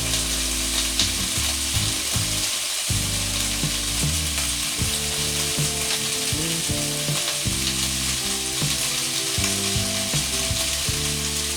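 Chicken breasts frying in olive oil in a pan, with a steady sizzle as they brown.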